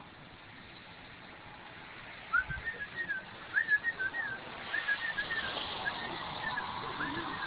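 A songbird singing a run of short whistled phrases, each of a few slurred notes, starting about two seconds in.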